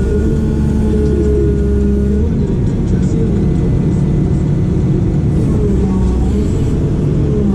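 Heavy diesel engine of a construction machine running under working load, with its engine note shifting and wavering about two seconds in and again around six seconds.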